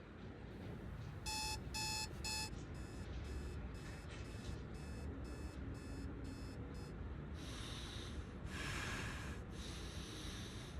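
Electronic alarm clock beeping in a steady run of short pitched beeps, two to three a second, loudest about a second in, stopping after about seven seconds. Several bursts of hiss-like noise follow.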